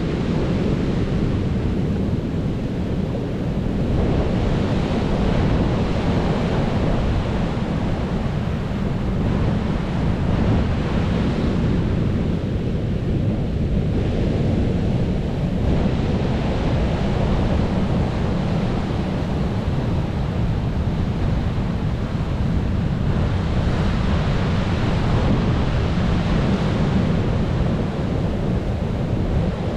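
Sea waves breaking and washing on the shore, a continuous surf noise that swells and eases every few seconds, with a low rumble and wind on the microphone.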